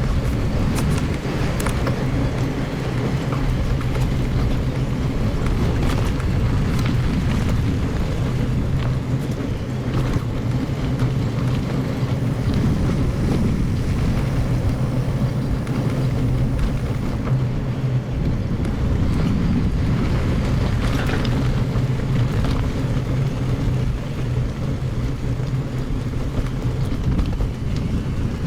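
Mountain bike rolling over a gravel forest road, sped up to double speed: a steady rumble of wind and tyre noise with scattered rattling clicks.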